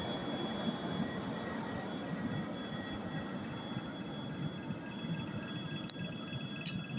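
Airbus A330-300 jet airliner's engines heard as a steady rumble that slowly fades while the aircraft lands, with a faint steady whine above it. Two short clicks near the end.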